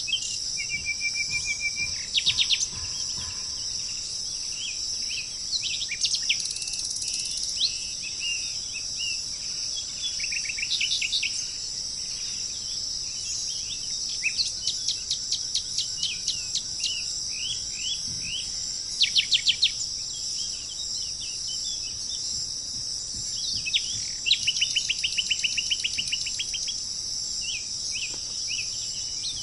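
Small birds calling: short chirps and quick trilled runs of notes every few seconds, over a steady high-pitched hiss that runs throughout.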